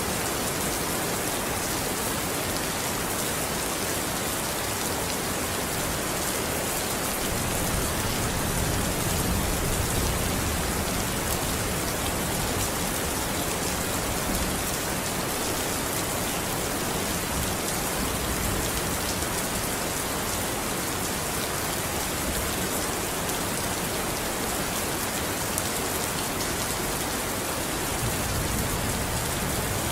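Steady, dense rainfall hissing evenly, with a low rumble of distant thunder swelling about a third of the way in and again near the end.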